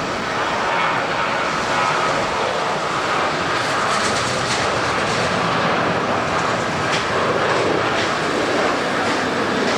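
Jet airliner's engines running, a steady loud rush with a faint whine that fades in the first few seconds.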